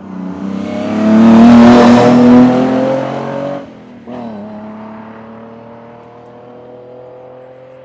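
Hill-climb competition car passing close at full throttle, loud for about three seconds. After a brief break, a car engine is heard further off, its pitch slowly rising as it accelerates up the hill and fades.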